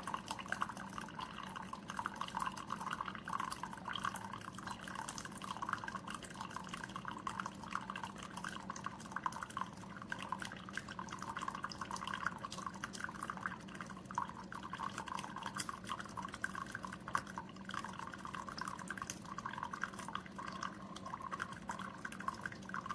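Keurig K-Supreme Plus single-serve brewer brewing a 10-ounce cup: hot liquid streaming and dripping steadily into the mug over a low steady hum. Very quiet.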